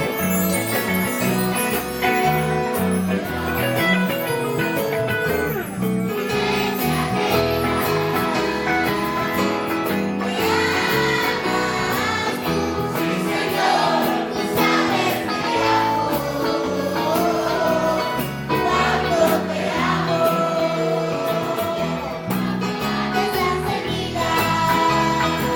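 Children's choir singing a hymn medley with instrumental accompaniment and a regular percussion beat; the singing voices come through more strongly from about six seconds in.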